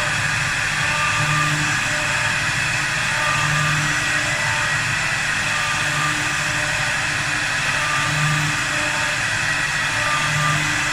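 Four-axis CNC wood lathe running and cutting a wooden leg blank: a steady machine noise with a low hum that swells about every two seconds.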